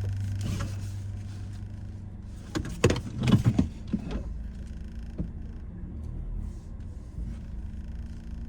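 Automatic car wash machinery: a steady hum that fades, then a cluster of loud knocks and rushes about three seconds in, settling into a lower steady rumble.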